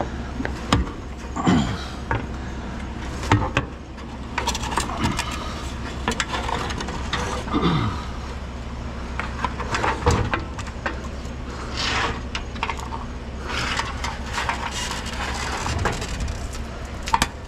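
A vehicle's engine running with a steady low hum, under irregular knocks and rattles.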